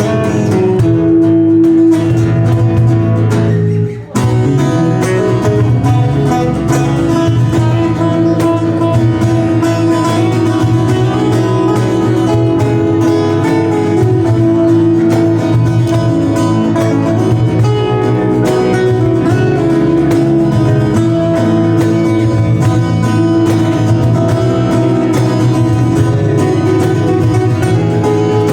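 Live acoustic guitar music, a jam played without pause except for a momentary break about four seconds in.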